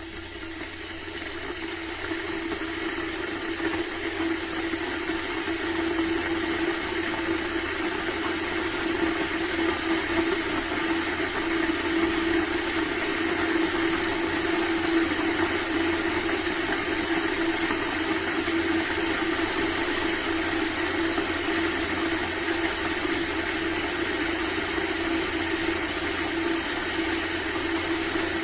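COSORI stainless-steel electric kettle heating water: a rushing, rumbling hiss that grows louder over the first few seconds, then holds steady.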